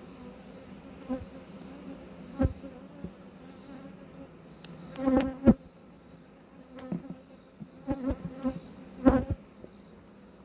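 A swarm of honeybees buzzing around an open hive as a steady hum. Several bees fly close past the microphone, giving louder buzzes that swell and fade, most strongly about halfway through and again near the end.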